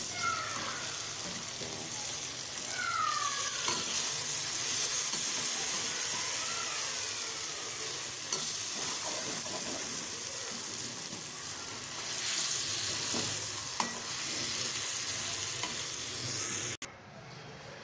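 Chicken and bitter gourd (karela) pieces sizzling in oil in a metal karahi while being stirred and scraped with a slotted metal spoon, the bhuna stage of frying the masala down in the oil. The sizzling cuts off suddenly near the end.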